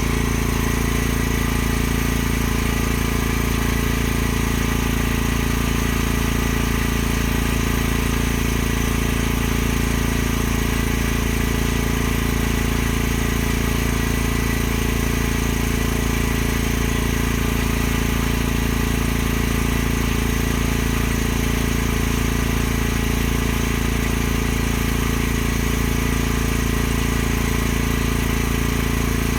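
A motor running steadily at constant speed, an even mechanical hum that does not change.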